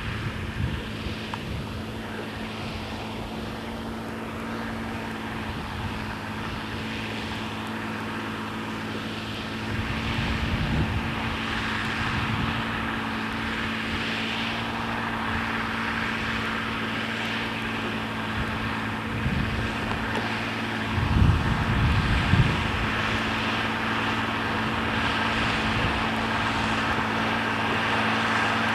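John Deere 3350 tractor's diesel engine pulling a plough with a steady drone. There is a low rumble about a third of the way in, and a few louder low thumps about three-quarters of the way through.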